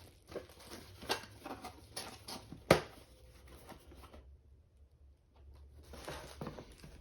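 Small parts and packaging being handled by hand: a string of light clicks and knocks with some rustling, the sharpest knock a little before the middle. After a short pause there is faint rustling near the end, over a low steady hum.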